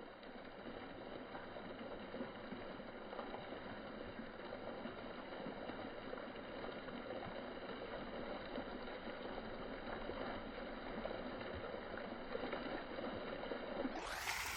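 Faint, steady outdoor background noise with no distinct events, growing slightly louder over time.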